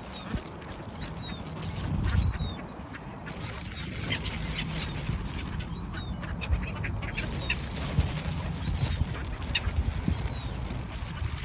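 Waterbirds calling, with a short high chirp repeating about once a second over a steady low rumble and scattered clicks.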